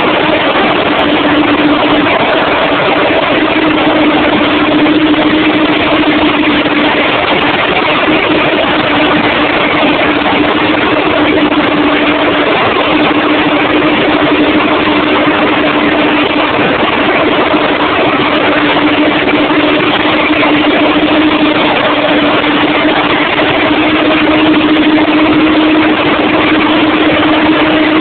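Marine diesel engines of a project 1741A river tug running steadily, heard inside the engine room: a loud, even drone with a constant hum and no change in speed.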